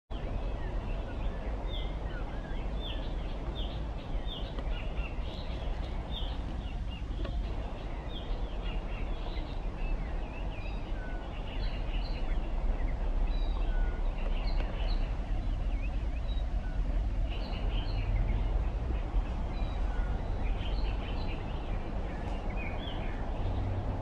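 Birds chirping and calling in many short, quick high notes, over a steady low rumble.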